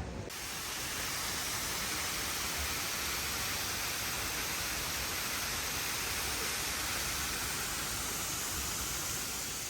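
Steady rushing of a waterfall, an even unbroken hiss that cuts in abruptly just after the start.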